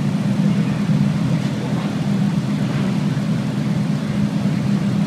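Ferrari sports-car engines idling together in a line, a steady low rumble.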